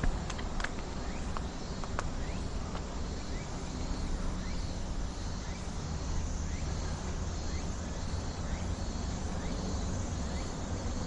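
Insects calling in an even, repeating rhythm of about two calls a second over a steady low rumble, with a few sharp clicks near the start.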